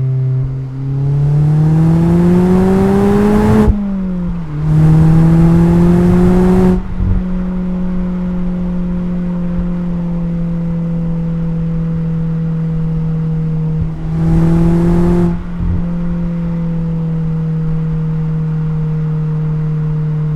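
Mazda MX-5's four-cylinder engine and exhaust under way: it pulls up in pitch for about three seconds, drops sharply, pulls again more gently, then settles into a steady cruise. About two-thirds of the way through there is one more short burst of throttle before it steadies again.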